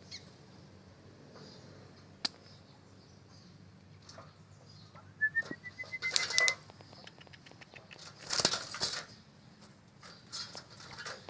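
Pigeons flapping their wings: two short bursts of rapid wingbeats, about six seconds in and again about two seconds later. A thin rising whistle comes just before the first burst.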